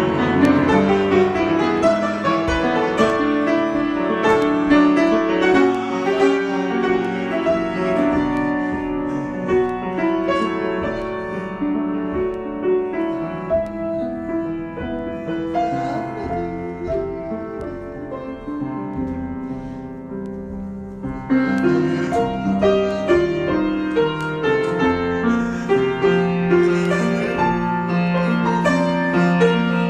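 Piano improvisation, a flowing run of sustained notes and chords that thins and softens through the middle, then comes back louder about two-thirds of the way through.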